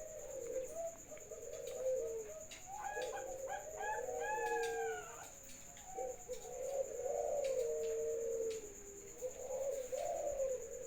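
Doves cooing in repeated, overlapping low phrases, with a run of higher chirping notes from about 2.5 to 5 seconds in.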